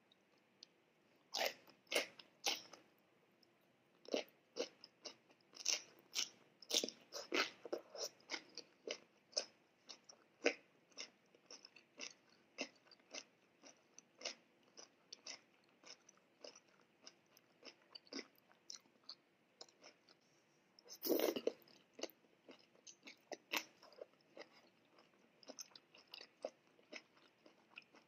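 A person chewing food close to the microphone, ASMR-style: many small crisp crunches and mouth clicks, thickest over the first ten seconds, with one louder, longer crunch a little after twenty seconds.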